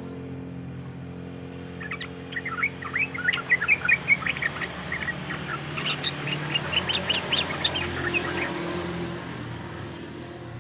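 Yellow-vented bulbul (trucukan) singing a fast, chattering run of short bubbling notes starting about two seconds in and fading out near the end, over a low steady hum.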